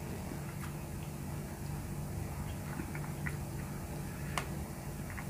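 Someone chewing a mouthful: irregular small clicks and smacks, the sharpest about four seconds in, over a steady low hum.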